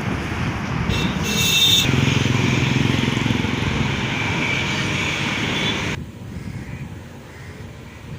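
Boeing 777 freighter's twin jet engines at takeoff power, a loud steady roar that drops off suddenly about six seconds in.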